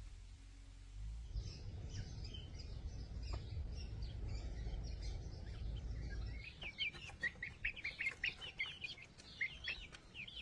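Small birds chirping in quick high notes, the chirping growing denser and louder in the second half, over a low rumble that fades out about two-thirds of the way through.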